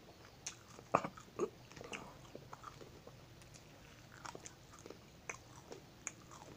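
A person biting and chewing fish crackers close to the microphone, with scattered crisp crunches and wet mouth sounds, loudest about a second in.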